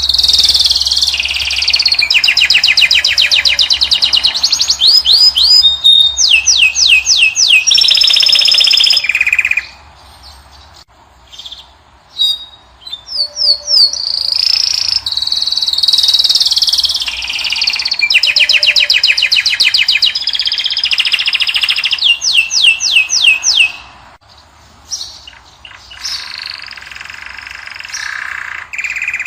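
Finch song, a goldfinch or canary type of cage bird: long phrases of fast, even trills and clear whistled notes, with a pause of a few seconds about a third of the way in and a softer phrase near the end.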